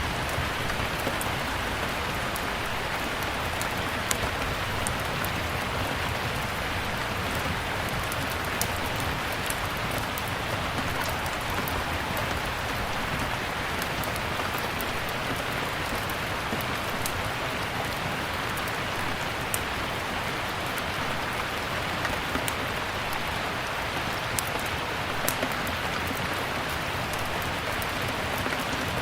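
Steady rain, with the scattered sharp crackles and pops of a wood fire in a fireplace.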